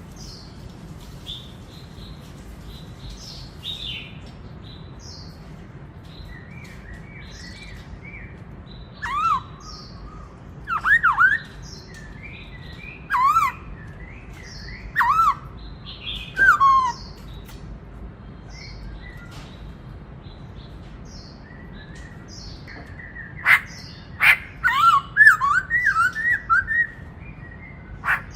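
Black-throated laughingthrush singing: loud swooping whistled notes in phrases, one run of them from about a third of the way in and another, faster run near the end, with sharp clicks and softer high chirps between.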